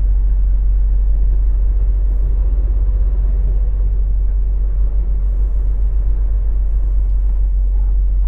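Semi truck's diesel engine running at low speed, a steady low drone with no sharp events.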